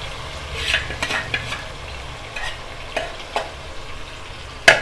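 Oil sizzling in a kadai as yogurt-marinated chicken is tipped in onto frying tomatoes and onions, with a few short scrapes. A sharp knock near the end is the loudest sound.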